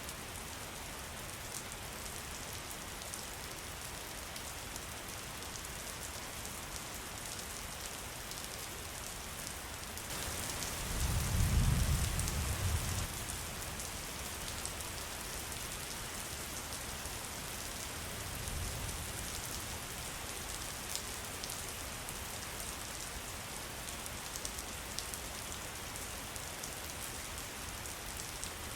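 Steady rain falling on a surface, with scattered drop ticks. A low rumble swells up a little before the middle, and again more faintly a few seconds later.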